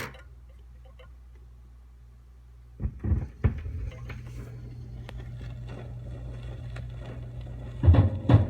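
Vinyl record starting on a turntable at 45 RPM: a click, then a couple of thumps about three seconds in as the stylus goes down, followed by surface noise over a low hum from the groove. Instrumental music starts near the end.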